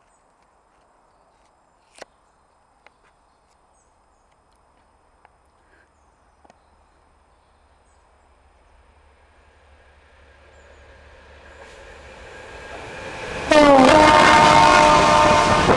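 Freightliner Class 66 diesel locomotive hauling a container train, its rumble growing steadily louder as it approaches. Near the end it sounds its horn loudly as it reaches the platform, the pitch dropping as the blast starts, over the loud rush of the locomotive and wagons passing close by.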